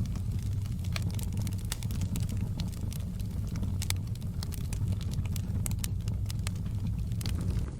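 Wood fire crackling, with many sharp irregular pops and snaps over a steady low roar. The level drops slightly near the end.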